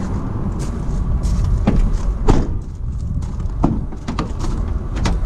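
About four sharp knocks and clicks, the second one loudest, over a low steady rumble of wind on the microphone.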